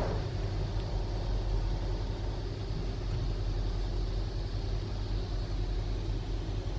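Automatic car wash machinery running, heard from inside the car's closed cabin: a steady low rumble.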